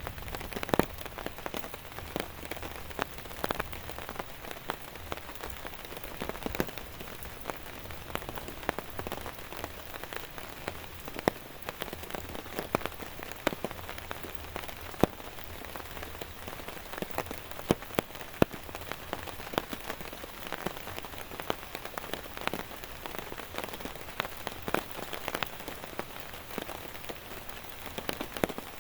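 Steady rain falling, with many separate drops striking a nearby surface in sharp, irregular clicks over the steady hiss of the rainfall.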